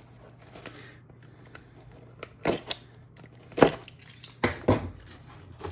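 A small package being forced open by hand: a few sharp clicks and snaps of packaging giving way, with light handling rustle between them.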